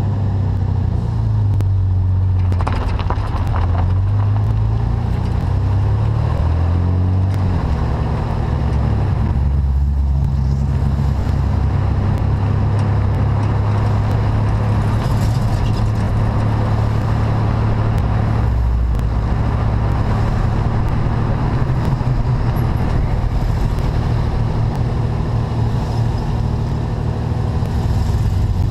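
A car's engine running, picked up close by a camera mounted low on the car's body beside the front wheel, with road and wind noise. The engine note rises and falls in pitch a few times in the first several seconds, then runs steadier as the car drives down the street.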